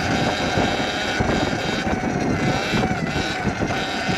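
Sur Ron electric dirt bike being ridden: a steady motor whine that wavers slightly in pitch, over a rough rushing noise of wind and tyres.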